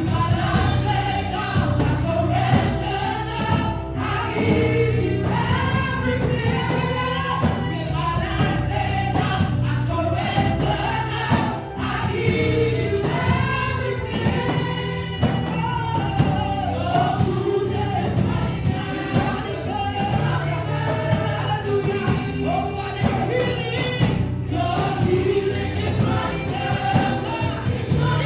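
Gospel worship music: a choir or group of singers singing over a steady band accompaniment with a continuous beat.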